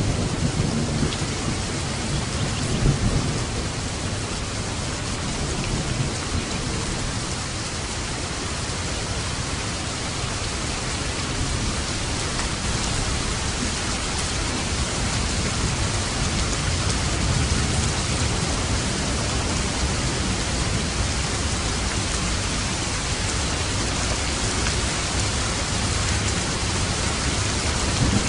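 Steady heavy rain falling, with low thunder rumbling under it, most strongly in the first few seconds.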